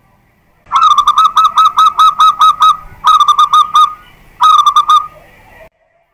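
Zebra dove (perkutut) cooing loudly in three quick runs of repeated notes: about eight, then five, then four coos, beginning about a second in.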